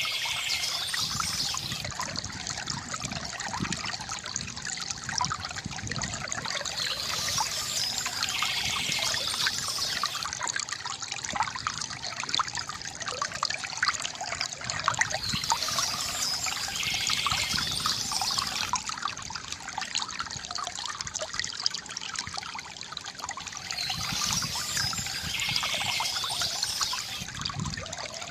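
Small stream trickling and splashing steadily over stones.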